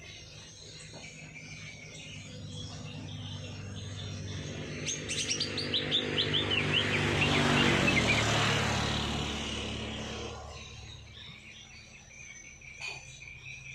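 Songbirds chirping, with a quick trill of notes falling in pitch about five seconds in. Under them a louder rushing sound with a low hum swells up, peaks around the middle and fades away again.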